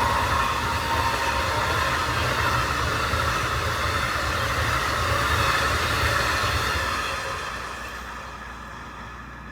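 Amtrak passenger train running past on the rails, a steady rush of wheel and rail noise with a low rumble that fades away over the last couple of seconds as it moves off.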